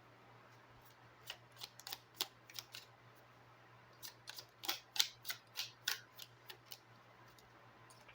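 Lenormand cards being handled and laid on a table: a run of light, irregular clicks and snaps in two clusters, one about a second in and one about four seconds in.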